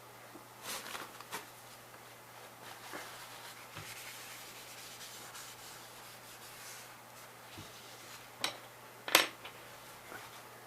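Scratching and rubbing strokes of a drawing tool on paper, with a few sharp clicks, two close together near the end, the second the loudest.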